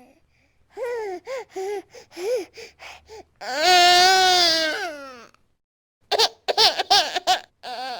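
Baby crying in a tantrum: a run of short hiccuping sobs, then one long wail about three and a half seconds in, then quick gasping sobs near the end.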